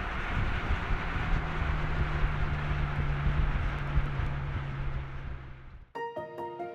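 2025 BMW M5's twin-turbo 4.4-litre V8 cruising at a steady engine note, with tyre and wind noise, fading out about five seconds in. Music with clear sustained notes starts in the last second.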